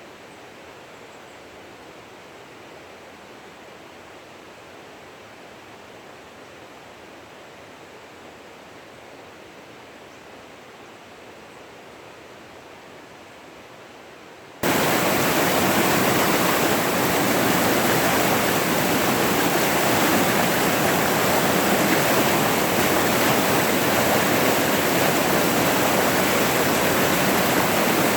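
Running water rushing steadily, with no other sound. About halfway through it jumps abruptly to much louder and stays there.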